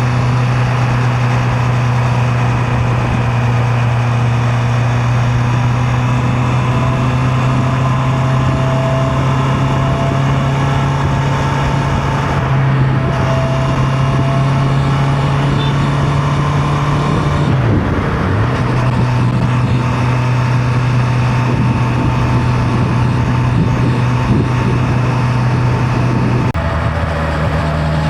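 Honda CB650R's inline-four engine running at a steady cruising speed, with a rush of wind and road noise. About two-thirds of the way through the engine note dips sharply and comes straight back up, and near the end it steps up to a higher pitch.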